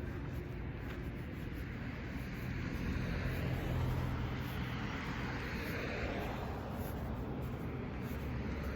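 Steady low rumble of distant motor traffic, swelling for a few seconds in the middle as a vehicle goes by, then easing.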